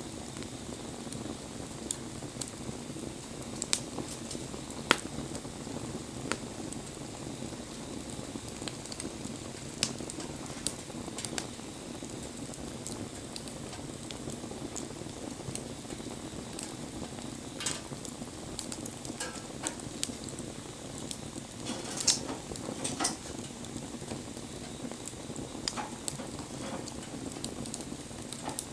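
Wood bonfire burning: a steady hiss with irregular sharp pops and crackles, a few louder ones about 22 seconds in.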